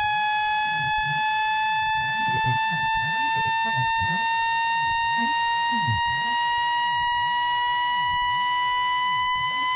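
Electronic speaker-cleaning tone, a steady pitch with overtones gliding slowly upward, with fainter warbling sweeps underneath. It is meant to vibrate a phone speaker's diaphragm and push out water and dust.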